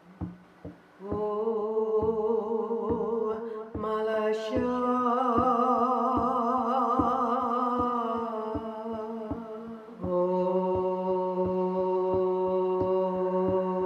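A single voice chanting long, wordless held tones, the pitch wavering on some notes, over a drum beaten steadily at about three beats a second. The voice changes note about four seconds in and again about ten seconds in.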